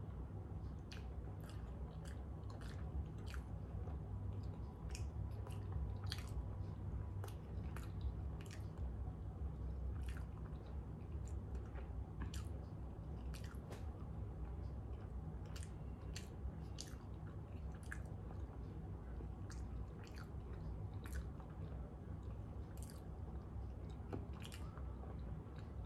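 A person chewing a mouthful of hot dog and bun close to the microphone: irregular wet clicks and smacks of the mouth. A steady low hum sits underneath.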